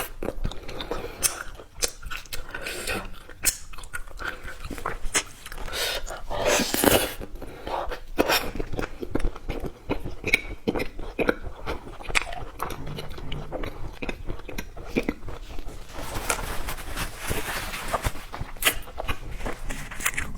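Close-up eating sounds: biting into and chewing wax-shelled candies, with many short, crisp crunches and clicks, and a denser run of crunching near the end.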